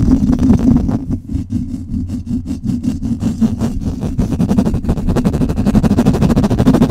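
Fast, aggressive scratching directly on a microphone: a loud, dense run of quick strokes, mostly deep in pitch.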